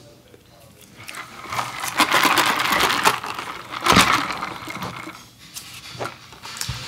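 Close-miked eating sounds: chewing a shrimp taco with wet, crackly mouth sounds, broken by a few sharp clicks and a louder knock about four seconds in.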